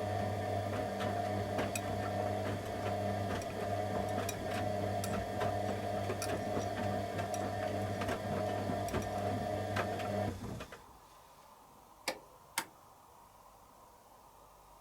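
Candy Aquamatic 100F washing machine's drum motor running with a steady hum and scattered ticks as it tumbles the load during the heated wash, then stopping abruptly about ten seconds in. Two sharp clicks follow a couple of seconds later.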